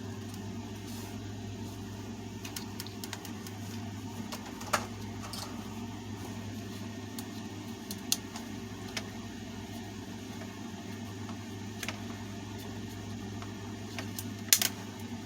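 A few short clicks and light knocks of table-fan parts being handled during disassembly, over a steady low hum.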